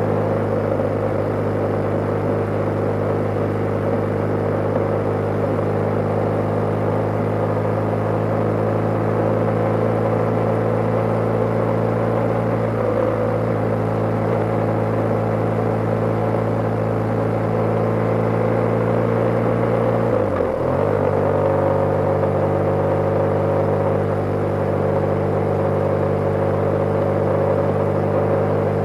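BMW G/S motorcycle engine running steadily while riding at a constant speed. About twenty seconds in, the engine note briefly drops and then settles at a new pitch, as with a gear change.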